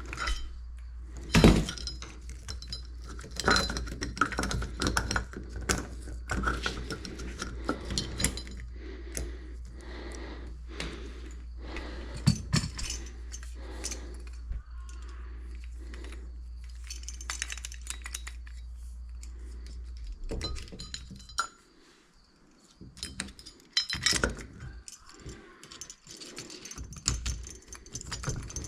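Hard objects, dish-like and metal, clinking and knocking together in irregular handling, over a steady low hum that cuts off about 21 seconds in.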